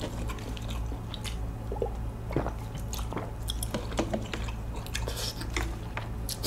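Close-miked chewing of a mouthful of spicy bibim noodles with whelk: scattered soft wet mouth clicks and smacks over a steady low hum.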